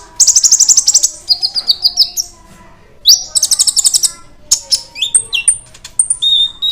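Kolibri ninja (konin), a small sunbird, singing in a lively, full-song state: several rapid trills of sharp, high notes and short rising slurs, in bursts with brief pauses between them.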